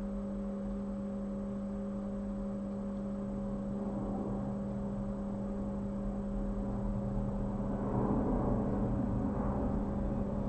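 Steady electrical hum with a low constant tone and a faint hiss, growing a little noisier in the second half.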